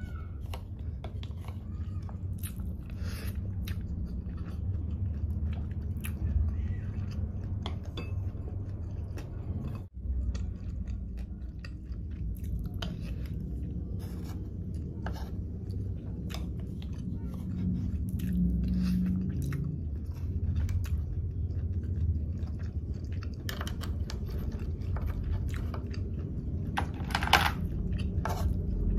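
Close-miked chewing of sea grapes and sea snail meat, with wet mouth sounds and scattered short sharp clicks. There is a brief drop-out about ten seconds in.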